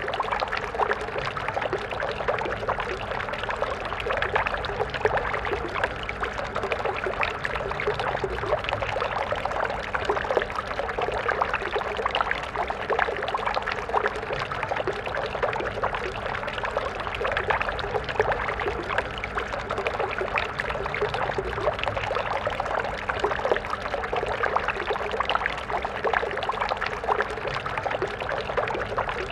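Stream water flowing and splashing steadily, a dense, even babble of small splashes.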